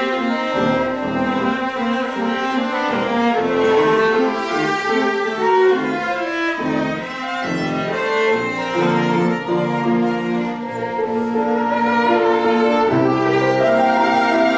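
Piano quartet playing: violin, viola and cello bowing sustained lines over piano, with the cello's low notes coming forward in the second half.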